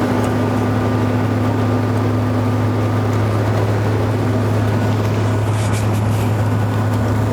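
Airliner cabin noise in flight: a steady drone of engines and airflow with a constant low hum.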